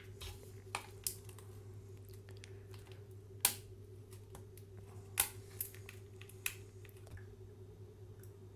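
A plastic drink pouch being handled and opened: scattered crinkles and clicks, the loudest about three and a half seconds in, over a steady low hum.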